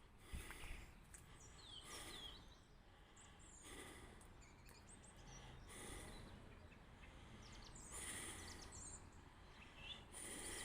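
Near silence: faint outdoor ambience with a few faint bird chirps scattered through, and a soft rushing noise that swells about every two seconds.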